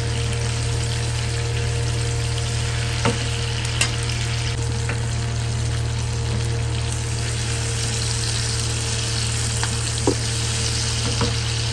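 Onion, tomato and garlic cloves sizzling steadily in hot oil in a non-stick frying pan while being stirred with a spatula, with a few light knocks of the spatula against the pan. A steady low hum runs underneath.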